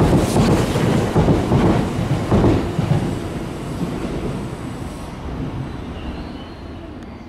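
Tobu Skytree Line electric train running along the rails, with knocks from the wheels over rail joints; the noise fades away over the last few seconds as the train moves off.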